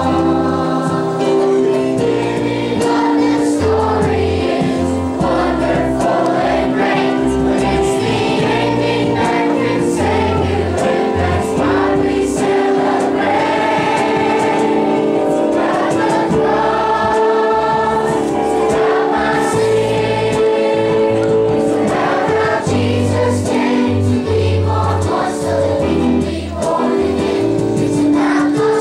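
A choir of school students singing a Christmas song with instrumental backing, sustained chords over a bass line.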